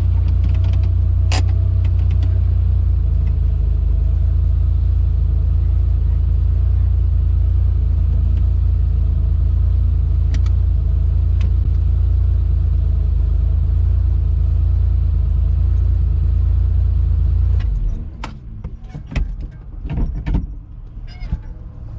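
A car engine running steadily with a heavy low rumble, which stops abruptly about eighteen seconds in; a few knocks and clicks follow.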